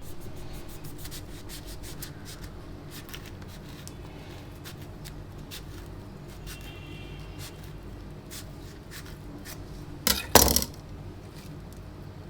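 Light clinks, taps and scrapes of tableware, with a brief ringing tone now and then and one louder double clatter about ten seconds in.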